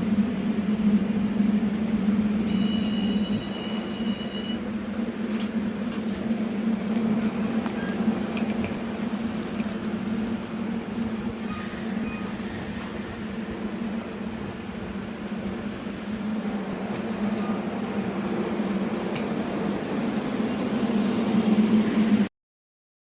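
Passenger train running: a steady rumble with a hum. A brief high-pitched tone comes about three seconds in, and the sound cuts off suddenly near the end.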